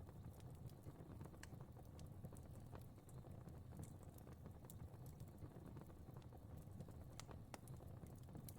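Faint fireplace fire crackling: a steady low rush of flames with scattered sharp pops and snaps, a few louder ones about a second and a half in and near the end.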